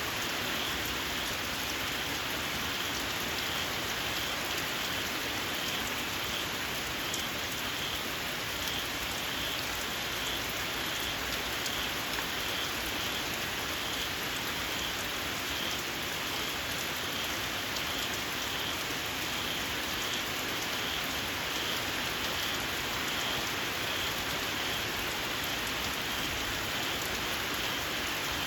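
Steady rain falling on open ground, with small frogs giving a steady series of short, high-pitched calls at an even pace throughout.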